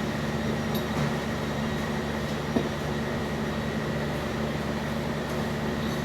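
Steady mechanical hum, like a fan or ventilation unit, with a few light clicks and one short sharp tap about two and a half seconds in.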